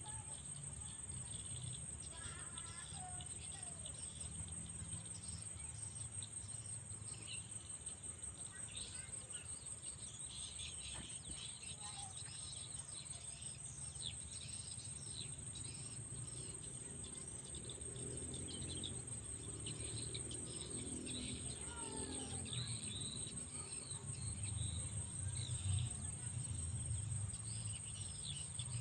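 Steady high-pitched insect drone, like crickets, with many short bird chirps over it, and a low repeated hooting call in the second half.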